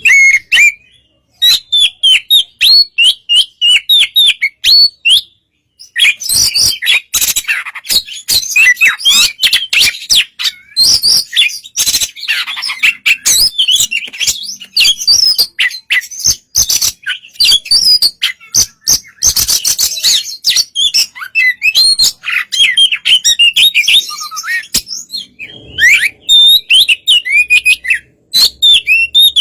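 Oriental magpie-robin (kacer) singing a rapid, varied song of chirps and whistles, with a short break about five seconds in. It is a relaxed song of the kind played to provoke other magpie-robins into answering.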